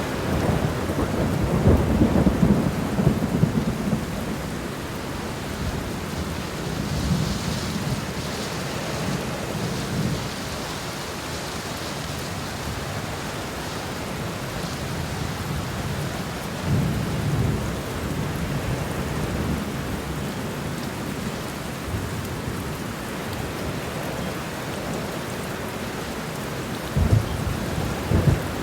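Steady rain falling, with low rumbles of thunder rolling in several times, the loudest near the start.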